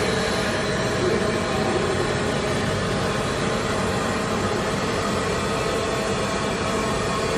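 Airbus A320neo airliner on the ramp during pushback, giving off a steady whine and rumble with several held tones that do not change.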